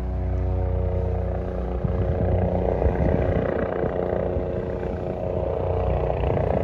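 Helicopter engine and rotor running with a steady, even drone.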